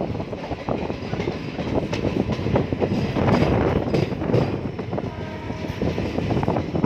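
Train running on the track, its wheels clattering over the rails with a steady rumble and many quick clicks.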